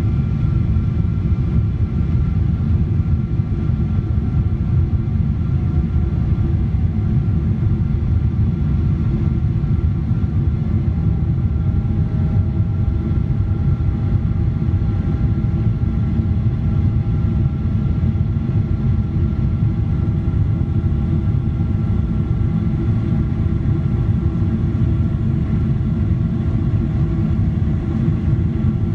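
Boeing 777-200ER's Pratt & Whitney PW4090 turbofans running, a steady deep rumble with several steady whining tones above it; a further tone joins about eleven seconds in.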